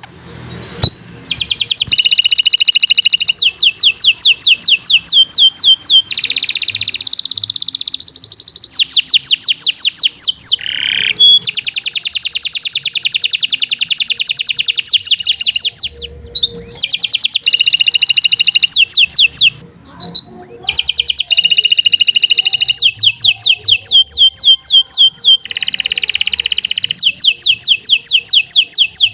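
Domestic canary singing a long, nearly unbroken song of rapid trills: fast runs of repeated high notes that switch to a new trill every second or two, with brief pauses twice.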